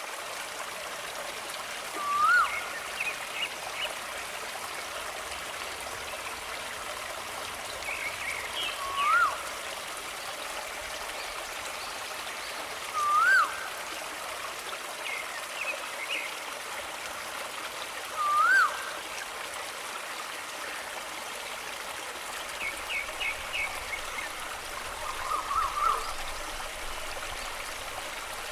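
A small stream flowing and trickling steadily. Over it a bird gives a short, loud call that rises and then drops, four times about five seconds apart, with softer chirps between and a flurry of quick calls near the end.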